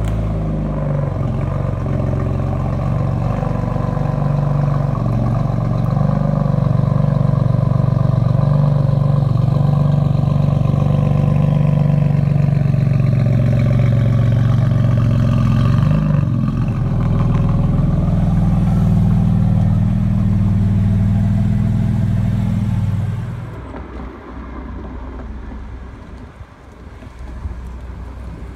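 BMW F80 M3's twin-turbo straight-six running at low revs through its quad exhaust as the car backs slowly out of the workshop, a loud, steady, deep drone. About 23 seconds in it drops away suddenly to a much quieter sound.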